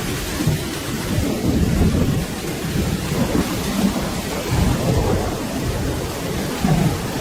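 Steady rain with a low, rolling rumble of thunder that swells and fades in waves underneath it.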